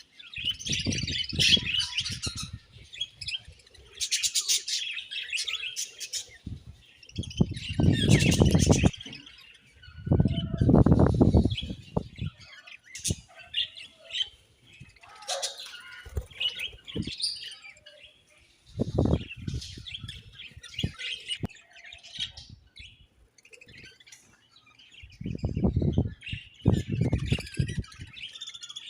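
A colony of budgerigars chirping and warbling continuously. Several loud, low rustling bursts, each lasting a second or two, break in over the chirping.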